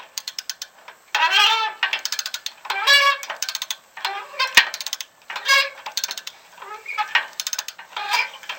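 Repeated strokes of a hand wrench on a rusted bolt: short high metallic squeals, each lasting about half a second, with fine ratchet-like clicks between them, and one sharp knock near the middle.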